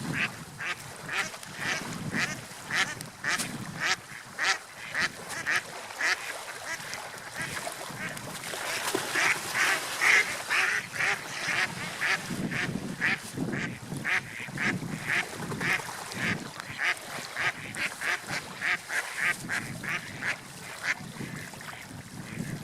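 Gulls calling in a long run of short, repeated calls, about two to three a second, over a low wash of surf and wind.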